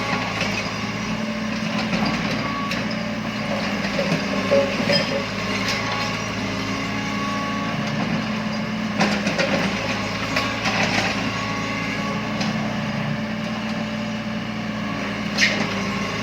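Heavy machinery engine running steadily at a low hum, with a few sharp knocks or clanks, the loudest near the end.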